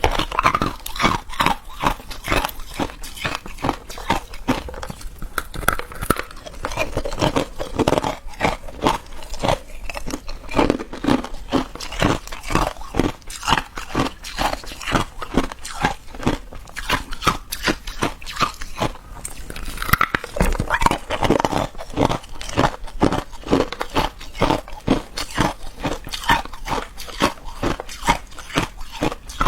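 A person biting and chewing ice, a dense, irregular run of crunches several times a second.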